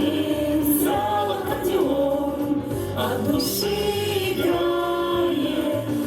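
A song sung by a group of voices over instrumental accompaniment with a steady bass line.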